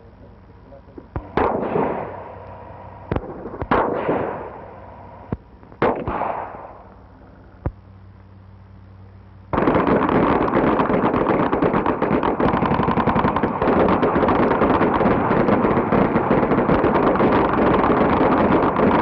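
Gunfire on an old film soundtrack. First a few sharp single shots and three louder bangs, each echoing away. About halfway through comes continuous rapid automatic fire lasting roughly nine seconds, with a steady hum underneath.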